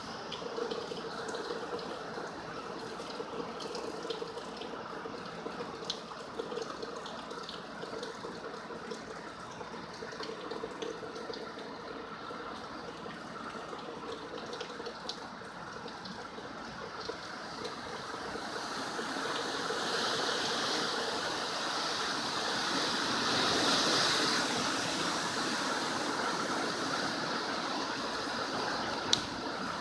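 Heavy hurricane rain and wind, a steady rushing hiss with scattered small ticks of drops hitting. It swells louder about two-thirds of the way through, then eases a little.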